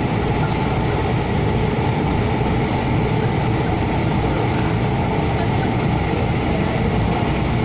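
Steady running noise of a Siemens SD160 light rail car, heard from inside the car as the train travels between stations: a constant low rumble of wheels on rail and traction equipment.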